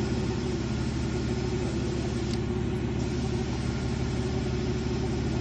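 Jeep JK's 3.8-litre V6 engine idling steadily.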